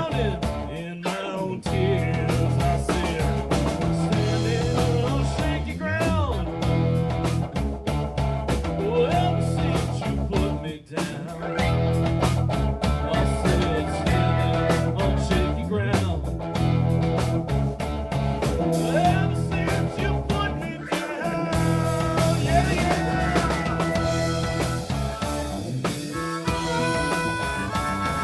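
Live blues-rock band playing an instrumental passage: drum kit keeping a steady beat under electric guitar lines with bent notes.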